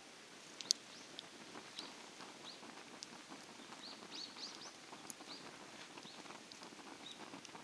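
Small birds chirping, many short high calls that bend up or down in pitch. There is one sharp click under a second in, the loudest sound, over a faint, steady crackling haze.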